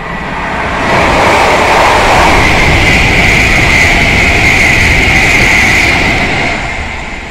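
Fast passenger train passing through the station without stopping: a loud rush of wheels on rail with a steady high-pitched hiss over it, swelling in the first second and fading near the end.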